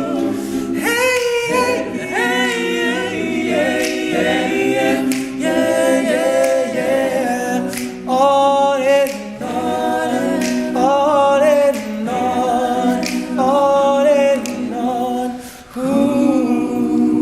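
All-male a cappella group singing in close harmony: a held low chord under higher voices that move between notes. The sound dips briefly near the end before a new chord comes in.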